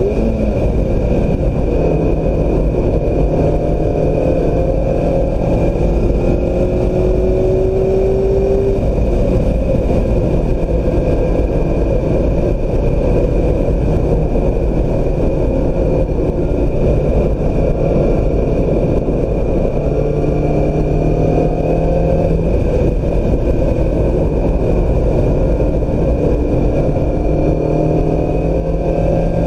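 2016 Mazda MX-5 Miata's four-cylinder engine driven hard on track, its revs climbing and falling through the gears.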